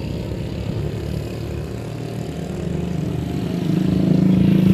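A motor vehicle engine running steadily, getting louder from about three and a half seconds in.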